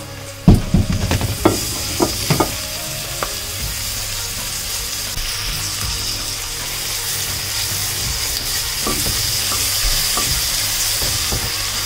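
Chopped tomatoes and mint dropped into hot oil with frying onions in a pressure cooker, setting off a steady sizzle that swells about a second in. A few knocks and scrapes of the spatula against the pot come in the first two seconds, with the sizzle continuing as it is stirred.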